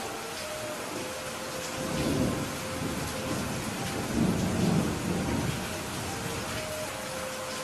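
Steady rain with thunder rumbling low twice, briefly about two seconds in and louder around four to five seconds in.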